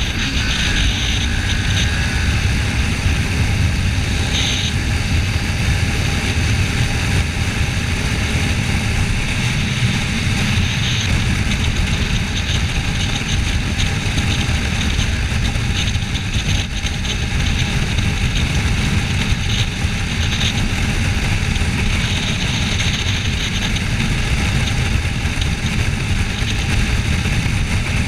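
Kawasaki Ninja 400 riding at a steady speed: its parallel-twin engine running under a loud, even rush of wind on the microphone.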